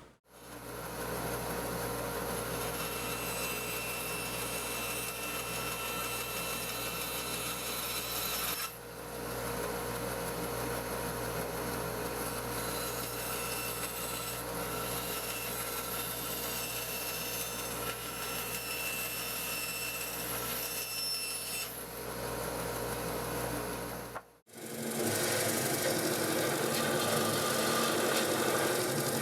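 Power saw running steadily as it cuts the curved decorative end of a framing-lumber foot piece, with a brief dip about nine seconds in. Near the end the sound cuts off and a slightly louder machine sound takes over.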